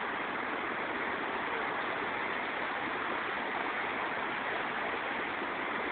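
Floodwater rushing steadily, an even unbroken noise.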